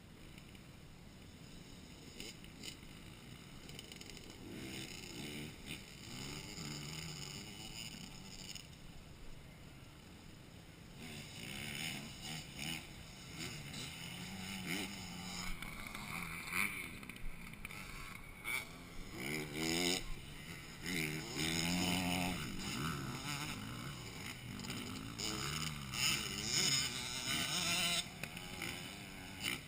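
Motocross motorcycles running on the track, their engines revving up and down in repeated rising and falling sweeps. Faint at first, the sound grows louder and busier about eleven seconds in.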